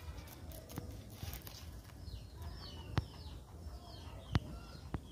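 Birds chirping in short, repeated, falling notes over a low outdoor rumble, with two sharp clicks about three seconds and four and a half seconds in.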